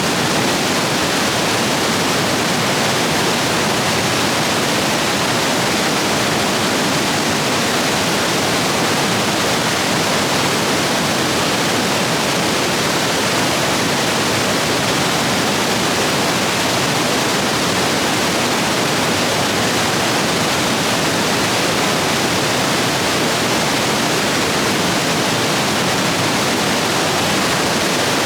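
Rapids of a rain-swollen stream rushing over rocks, a loud, steady roar of water.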